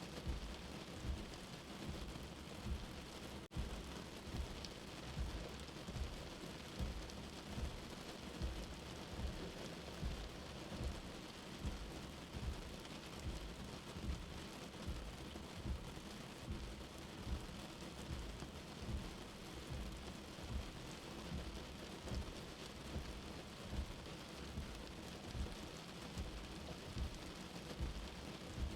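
Steady rain heard from indoors, with a soft, low heartbeat thumping under it about once a second.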